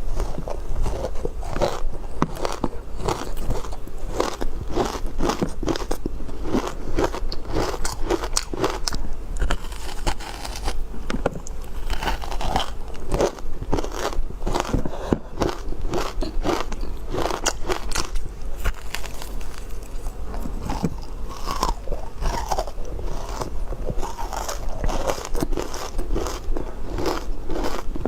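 Ice being bitten and chewed close to the microphone: steady, repeated crunching and crackling of ice cubes breaking between the teeth.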